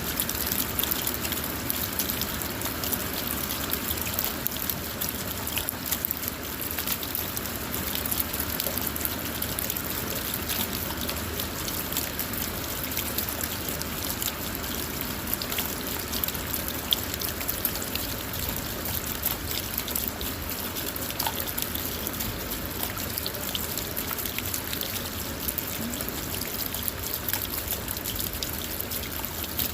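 Steady rain on a car, heard from inside: an even hiss with many small, irregular drop hits, and water trickling.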